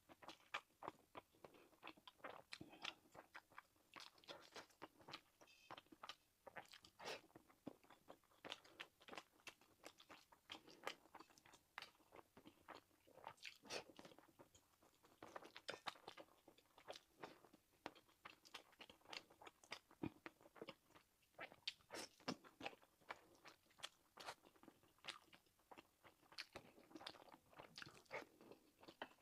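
Close-miked chewing of egg fried rice and sausage: an irregular run of short crunches and mouth clicks, several a second.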